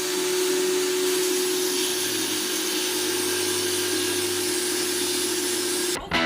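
Electric table saw motor running steadily: an even whir with one constant hum. It cuts off suddenly near the end, where music begins.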